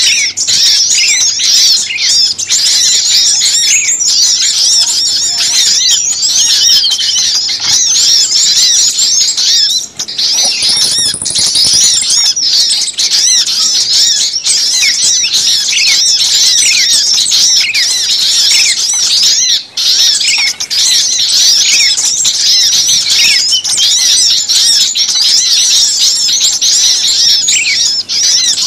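Dense, unbroken chorus of many small birds, with rapid, overlapping high-pitched chirps and squeaks: a noisy bird-lure call mix. A brief, thin, higher trill sounds about eleven seconds in.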